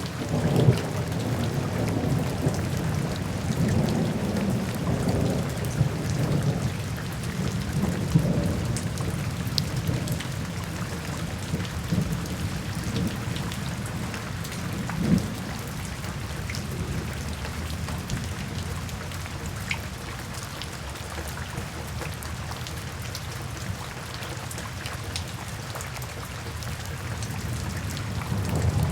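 Steady heavy rain with patters and drips, under rolling thunder. The low rumble is strongest in the first several seconds, dies away, and builds again near the end.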